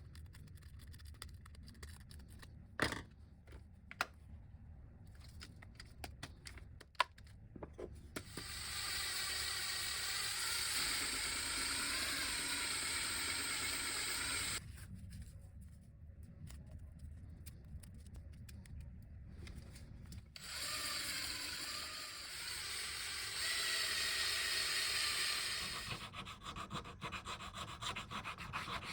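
Small power tool running in two stretches of about six seconds each, working on the grinder's parts, after a few light knocks and taps.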